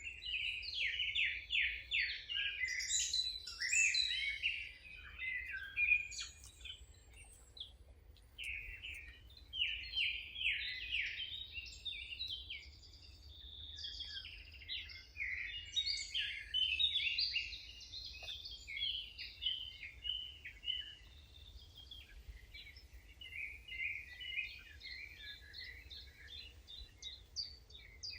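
Songbirds singing in runs of quick, high chirping phrases, several voices overlapping, with short pauses between bursts, over a steady low rumble.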